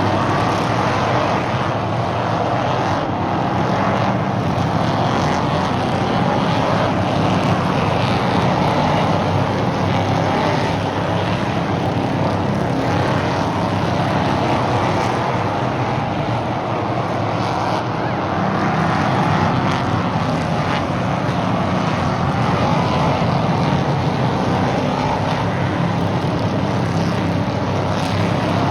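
Several stock car engines running at racing speed around an oval track, a continuous loud engine noise that swells and eases gently.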